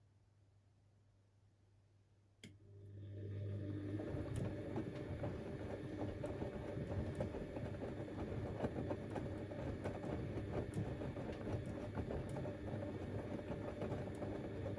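Siemens Extraklasse XLs 140 A washing machine's drum turning in the wash phase of a 60°C cotton stains programme. A click about two seconds in, then the motor runs up over a second or so to a steady run, with the laundry tumbling and knocking inside the drum.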